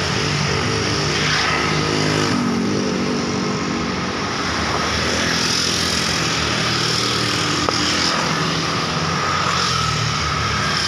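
Continuous road traffic: motor vehicles passing with their engines running, one engine note falling away about two seconds in.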